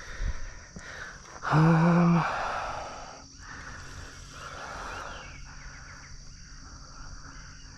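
A man's short strained grunt about a second and a half in, over a steady high drone of insects.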